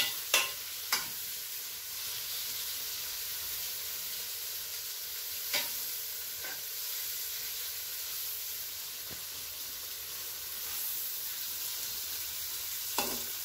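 Chopped tomatoes and browned onions frying in ghee in a metal pan, a steady sizzle, with a metal spoon stirring and clinking sharply against the pan a few times.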